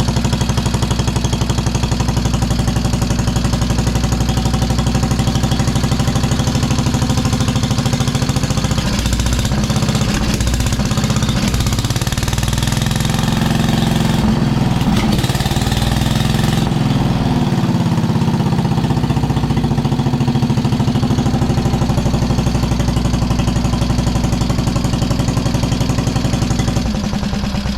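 1973 Wheel Horse lawn tractor's 10 hp Kohler single-cylinder engine running steadily and loud through a homemade galvanized-pipe exhaust, fed by a Chinese replacement carburetor set to run lean. The speed wavers around the middle, and near the end the firing slows as the engine winds down.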